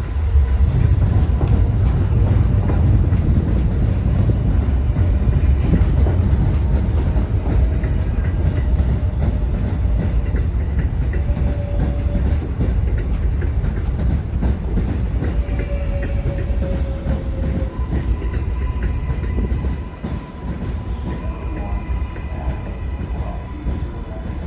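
R188 subway train running on the Flushing Line tracks: a steady heavy rumble with wheel clatter, and short faint wheel squeals about halfway through.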